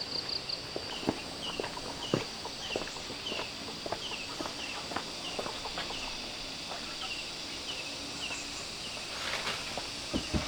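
Footsteps walking outdoors, irregular soft steps on the ground. Over them runs a steady series of short, falling high chirps, about two or three a second, that stops near the end.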